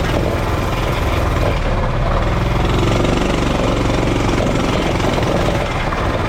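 Coleman CT200U minibike's single-cylinder four-stroke engine running steadily.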